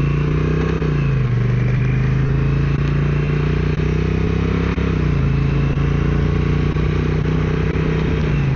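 Motorcycle engine accelerating from a standstill through its automatic transmission in S2 mode. The pitch climbs between shifts and drops with an upshift about a second in and another about five seconds in.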